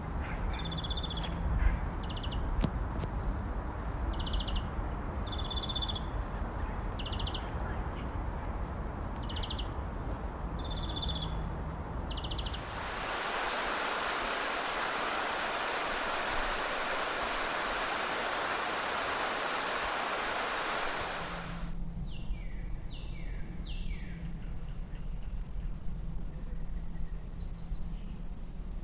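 Outdoor nature ambience in three parts. First, short repeated bird calls, about one every second or two, over a low rumble. Then about nine seconds of steady rushing hiss, followed by a steady high trill with a few quick falling bird calls.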